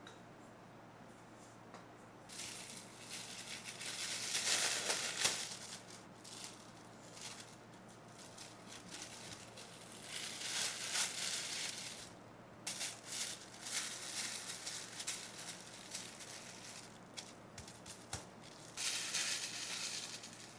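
Irregular bursts of dry rustling, crinkling and scraping, each a second or three long, with quiet gaps between: hands working ingredients or kitchen materials during food preparation.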